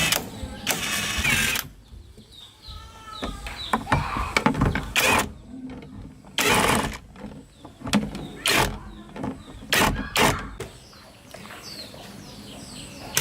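Hand-tool work on a car: a series of sharp clanks, knocks and scraping bursts of metal parts and tools, with a noisier stretch of scraping near the start.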